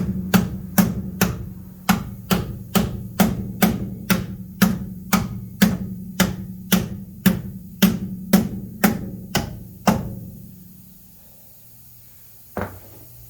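Hammer blows on the Jeep Comanche's cut wheel-well sheet metal, folding the edge in for tire clearance: a steady run of about two strikes a second, each with a short metallic ring, stopping about ten seconds in, then one last blow near the end.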